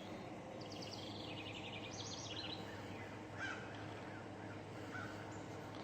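Small birds calling over a steady low background hum: a quick series of high notes stepping down in pitch about half a second in, another bright call near two seconds, and softer chirps later.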